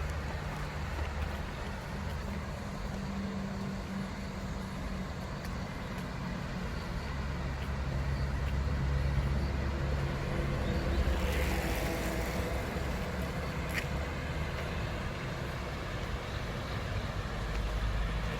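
Steady low rumble of road traffic, swelling for a few seconds in the middle.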